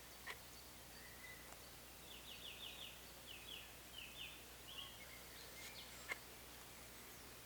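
Woodland birds singing faintly: a quick series of short, high, sliding notes in groups through the middle, with other thin calls around it. Two sharp clicks, one just after the start and a louder one near the end.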